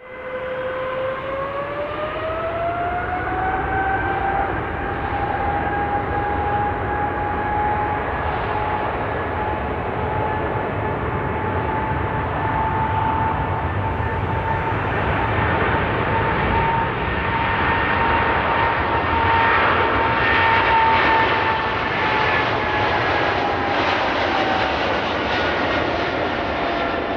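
Boeing 777 taking off: its twin turbofan engines spool up with a rising whine over the first few seconds, then hold a steady whine and roar at takeoff thrust. It is loudest about twenty seconds in, and the whine drops slightly in pitch near the end.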